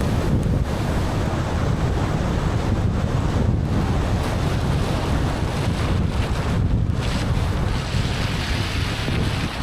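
Steady rushing noise of a car driving in the rain: tyres hissing on a wet road and rain, with a strong low rumble underneath.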